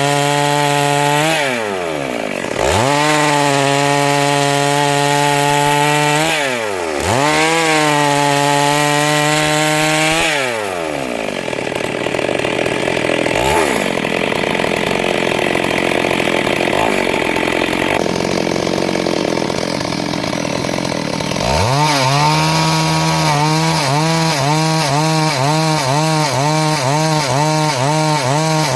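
Two-stroke chainsaw running at high revs. Its pitch drops and climbs back twice in the first ten seconds as the throttle is eased off and opened again. For about ten seconds from the middle the clear engine note gives way to a rougher, noisier sound. Then the saw revs up again, its pitch wavering rhythmically to the end.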